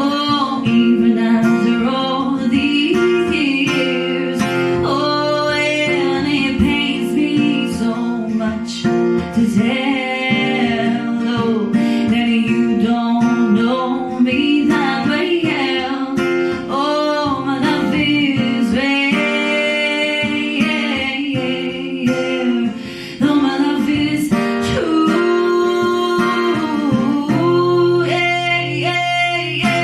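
A song sung to acoustic guitar accompaniment: a voice carrying a melody over steadily strummed and plucked guitar chords.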